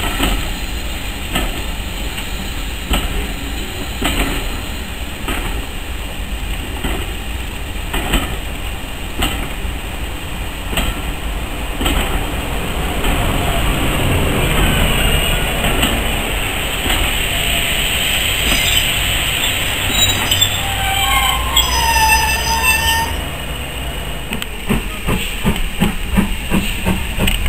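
Railway passenger coaches rolling slowly past, their wheels clicking over rail joints about every second and a half. From about halfway in, the wheels squeal in wavering high tones for several seconds, then clicking resumes, quicker near the end.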